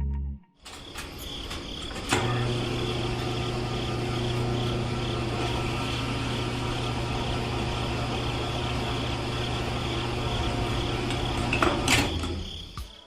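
Small electric motor, such as a toy tractor or mini pump motor, switched on with a click about two seconds in, running with a steady whirring hum, then switched off with a click near the end.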